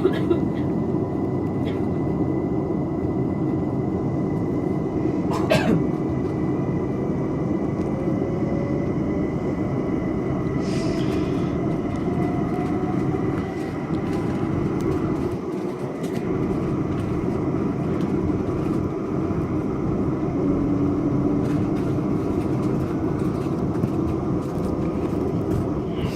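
London Overground Class 378 electric train running, heard from inside the carriage as it pulls away and accelerates: a steady rumble of wheels on track, with a motor whine rising in pitch from about seven seconds in. A faint steady high tone runs underneath, with an occasional click.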